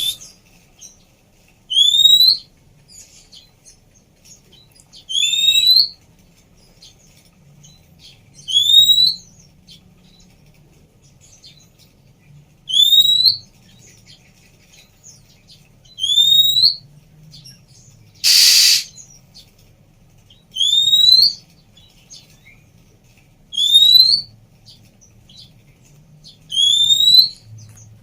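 Female Oriental magpie-robin (kacer) giving a short rising whistle, repeated eight times at intervals of about three to four seconds. One short harsh rasp comes about two-thirds of the way through.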